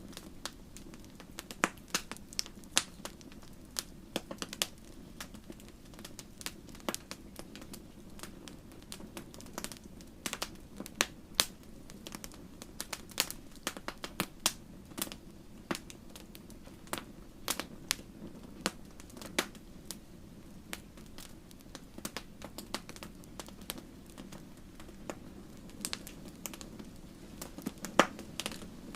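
Fire crackling in a fireplace: irregular sharp pops and snaps, a few much louder than the rest, over a steady low rumble.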